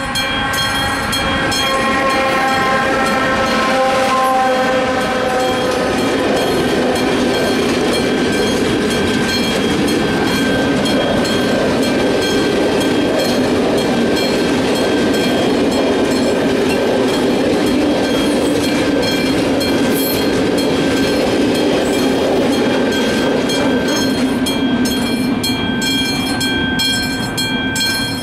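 Level-crossing warning bell ringing steadily while a freight train of hopper wagons rolls across. For the first six seconds or so a pitched locomotive sound slides down in pitch as it passes. Then the rumble of the wagons on the rails takes over until near the end.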